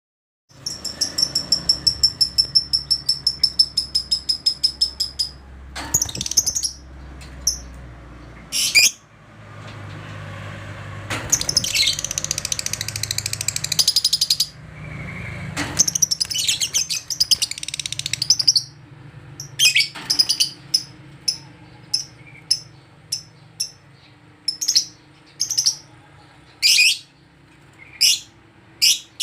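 Lovebird calling. A fast run of high chirps at about five a second opens it, harsher chattering stretches follow, and separate shrill chirps come roughly once a second near the end: the excited, worked-up calling that keepers call 'emosi'.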